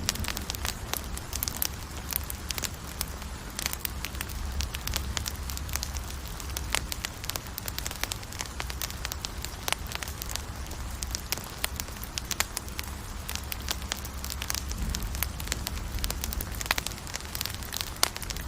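Campfire burning, with frequent irregular sharp pops and crackles of the wood over a steady low rumble.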